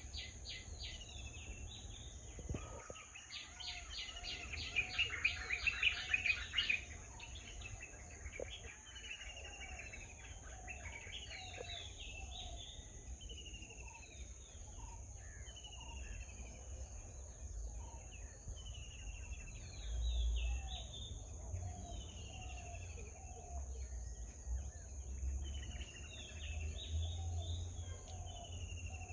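Several birds calling, mostly short falling chirps repeated over and over, with a dense burst of rapid chirping about four to seven seconds in. A steady high insect drone and a low rumble run underneath.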